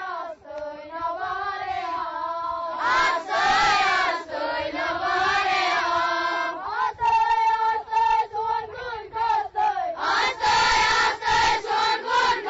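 A group of children singing together in unison. About seven seconds in, the tune turns into a run of short, evenly repeated notes.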